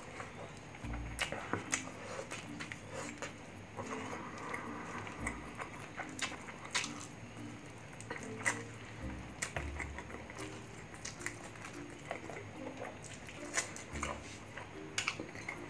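Close-up eating sounds: wet chewing and lip smacking of grilled chicken and rice eaten by hand, with many irregular clicks and a few low thumps.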